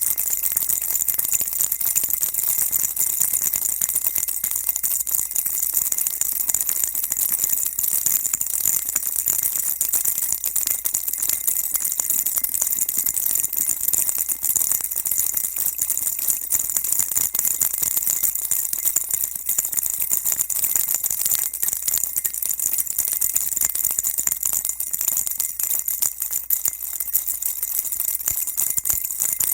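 Baby rattle shaken continuously: a dense, steady, high-pitched shushing rattle of small beads or pellets with no pauses.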